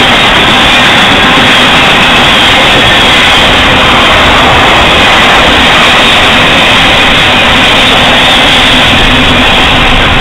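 Loud, steady rolling rumble and clatter of a Norfolk Southern double-stack intermodal freight train's well cars passing close by on the rails.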